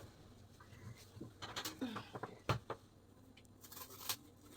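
Kitchen handling noises while packing vegetables: a few light knocks and clicks with short rustles between them, the sharpest knock about halfway through and another near the end.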